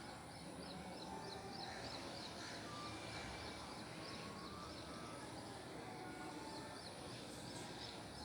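Faint outdoor ambience with birds: a high chirp repeating about three to four times a second, with a few short whistled notes now and then over a steady background hiss.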